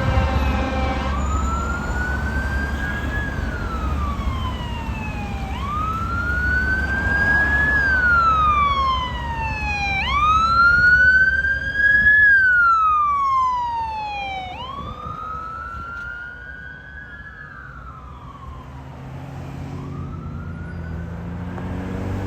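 Fire engine's siren wailing, each cycle rising then falling over about four to five seconds, over the truck's low engine rumble as it drives past. The sound grows fainter in the second half as the engine moves away.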